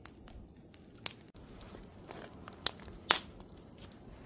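Wood fire crackling: scattered sharp pops over a low, steady noise from the fire. Three of the pops are louder, at about one second, two and a half seconds and three seconds in.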